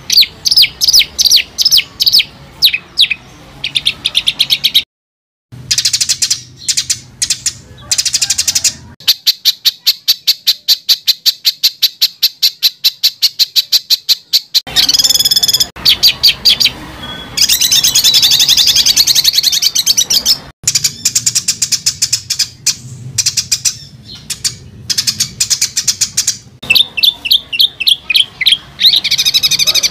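Songbird song of rapid, harsh, high-pitched repeated notes, the dense 'shot' phrases used as masteran material to tutor competition birds. About a third of the way in it breaks into a long run of fast, evenly repeated notes lasting several seconds, and the song cuts out briefly near the start.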